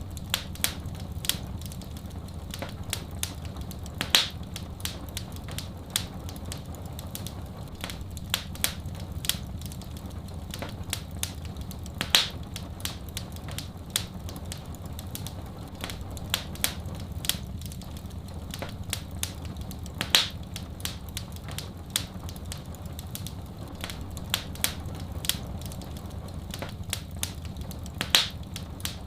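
Wood fire in a fireplace crackling, with many small snaps and a louder pop about every eight seconds, over a steady low rumble.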